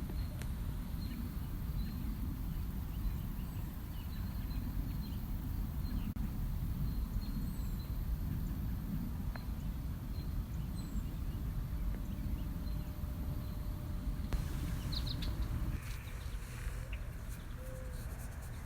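Outdoor ambience: a steady low rumble with faint, short, high bird chirps repeating through it, and a few brief calls near the end.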